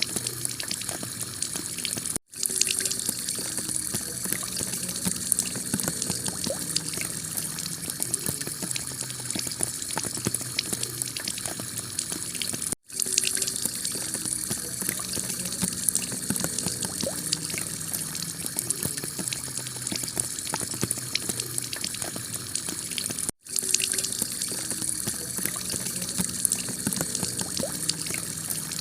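Heavy rain drumming steadily on a clay-tiled roof: a dense hiss of countless drop ticks. It cuts out for an instant three times, about every ten seconds, where the recording loops.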